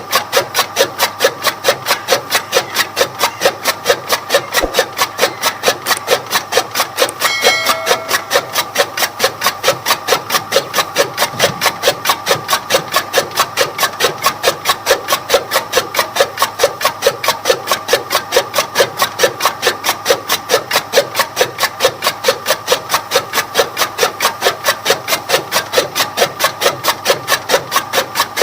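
Toka chaff cutter running, its blades chopping fodder in a fast, even rhythm of about three to four cuts a second over a steady hum. A brief higher tone sounds once about seven seconds in.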